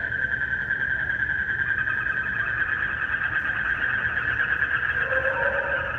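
Night chorus of calling frogs and crickets: a dense, steady high-pitched pulsing trill, with a short lower call coming in about five seconds in.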